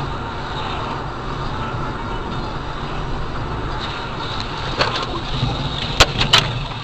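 Steady road and engine noise of a moving car, then a sharp knock about five seconds in and two loud bangs a third of a second apart about a second later: the sounds of a road collision.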